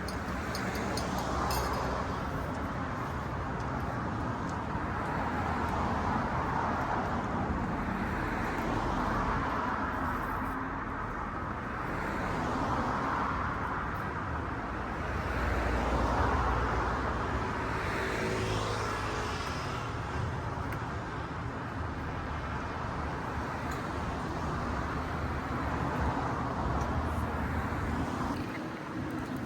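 Road traffic noise: a steady wash of passing cars that swells and fades as vehicles go by, with a brief rising whine past the middle.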